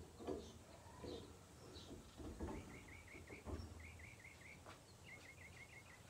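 Faint bird chirping: three quick runs of four or five short notes each, about a second apart, with a few faint knocks of a wrench against rusted metal.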